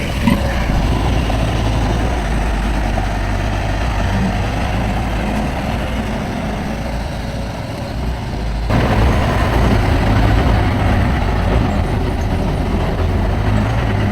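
Diesel engine of heavy earthmoving machinery running under work, steady and continuous; the sound changes abruptly and grows louder about nine seconds in.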